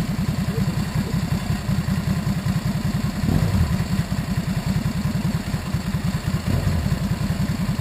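Ducati Multistrada's V-twin engine idling with a steady pulsing beat, about ten pulses a second.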